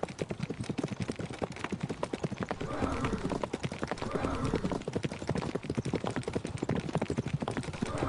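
A herd of zebras galloping: a dense, irregular patter of many hoofbeats on hard ground.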